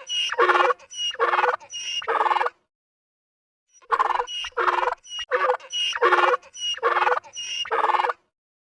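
An animal calling in short, harsh, pitched calls, a run of five, a sudden break of dead silence, then a run of about seven more.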